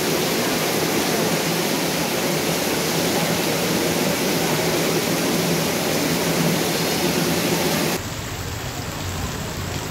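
Heavy rain pouring onto flooded street water, a dense steady hiss. About eight seconds in it changes abruptly to a quieter, duller rain sound with more low rumble underneath.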